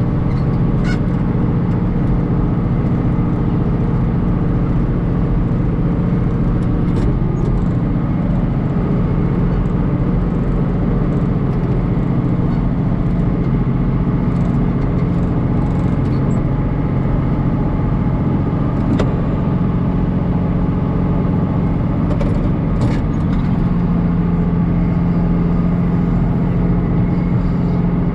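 Farm tractor's diesel engine running steadily under load, with a few faint clicks and rattles.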